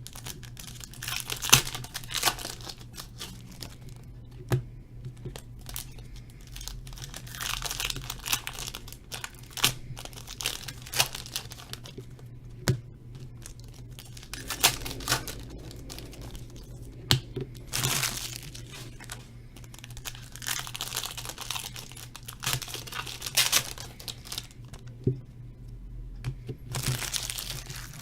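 Foil trading-card pack wrappers being torn open and crinkled by hand, in repeated bursts of tearing and rustling.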